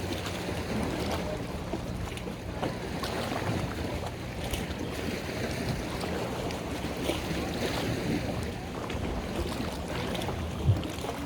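Boat engine running steadily with water wash and wind on the microphone, and a single knock near the end.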